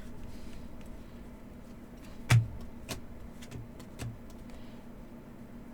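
Cards and packs being handled on a table: one sharp knock about two seconds in, followed by three softer taps, over a faint steady room hum.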